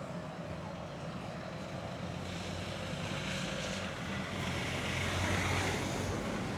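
A motor vehicle passing in the street: a low engine hum with tyre hiss that swells to its loudest about five seconds in.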